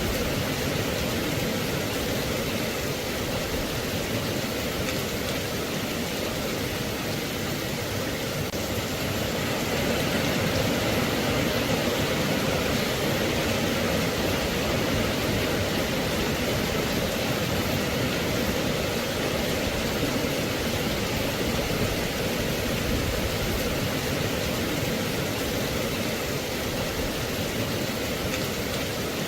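Steady rain: an even, unbroken hiss of falling rain with no distinct drops, thunder or other events.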